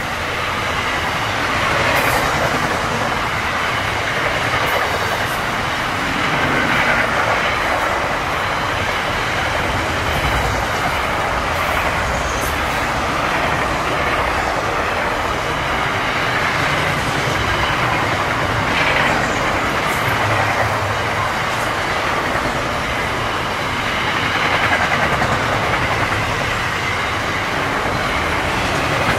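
Freight train of container flat wagons rolling past: a steady rush and rumble of steel wheels on the rails, with a few sharp clicks over rail joints.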